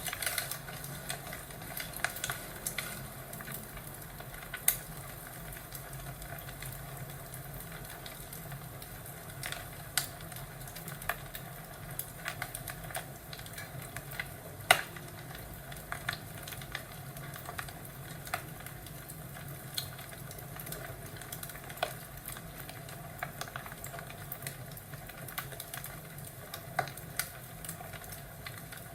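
Wood fire crackling in a fireplace: a steady low hiss with irregular sharp pops and snaps, the loudest about five and about fifteen seconds in.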